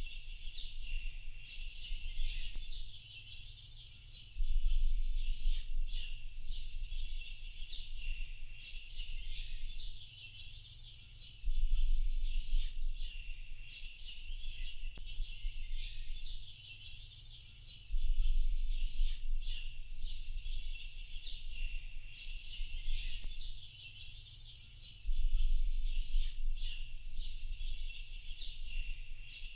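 A dense chorus of small birds chirping and twittering continuously at a high pitch. A low rumble swells up about every six to seven seconds, four times, and is the loudest part.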